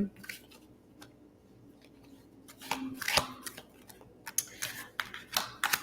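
Tarot cards being handled: a series of short, light clicks and rustles of card stock, most of them in the second half, with a gap in between.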